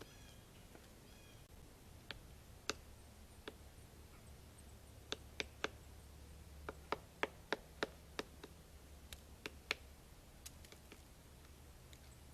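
Woodpecker pecking at a tree trunk: sharp single taps at irregular intervals, bunched most thickly in the middle of the stretch, over a faint steady hum. A brief bird call sounds near the start.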